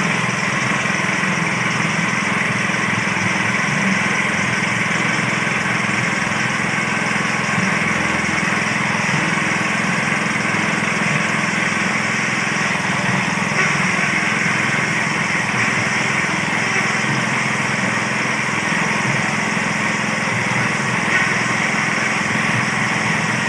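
Small engine running steadily at constant speed, driving a simple well-drilling rig, with a steady hum and no change in pitch or load.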